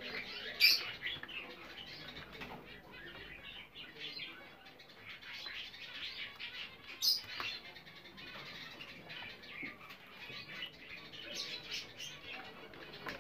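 Two English (show) budgerigars chattering softly in a dense run of short chirps and warbles, with three sharp clicks: about a second in, about seven seconds in and near the end.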